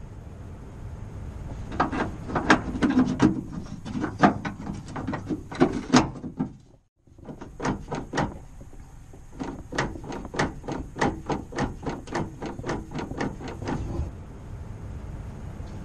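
Irregular sharp clicks and knocks of hand work on a van door and its outside handle hardware, with a short break about seven seconds in and quicker runs of clicks in the second half.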